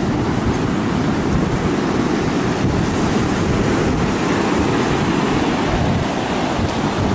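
Hurricane-driven surf crashing steadily, with strong wind buffeting the microphone in a low, fluttering rumble.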